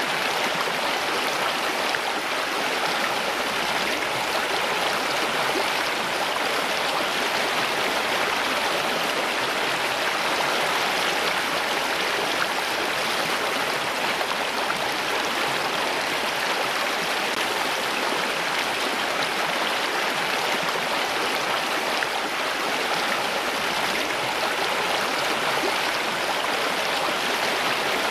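Running water, a steady rushing hiss with no breaks or changes.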